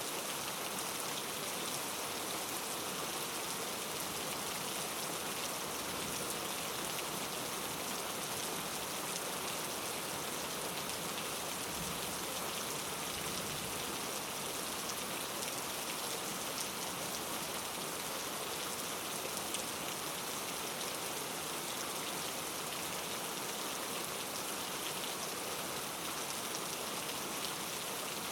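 Steady rain falling and pattering on a surface, an even hiss with many small drop ticks and no thunder.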